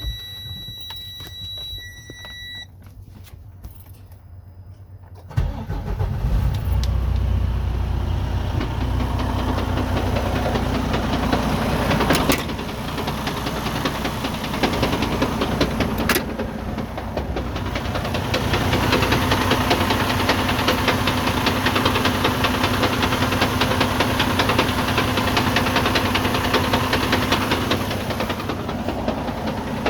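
Freightliner Cascadia semi truck: an electronic warning beep for the first couple of seconds, then the diesel engine cranks and starts about five seconds in and settles to idle. From about 18 seconds a louder, rougher running noise comes in, the sound of the broken 13-speed transmission's damaged gears when the clutch is released.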